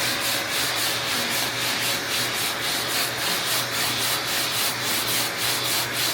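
80-grit sandpaper on a hand sanding block rasping back and forth across a car's front fender, steady rhythmic strokes about three a second, worked in a crisscross pattern to level the panel.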